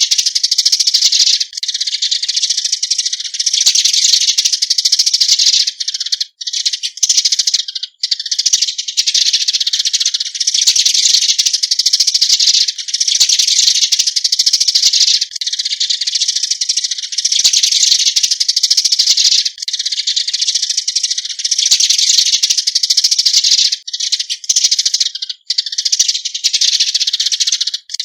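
Eurasian tree sparrows calling, a dense, continuous chatter of chirps in stretches of about two seconds with brief gaps between them.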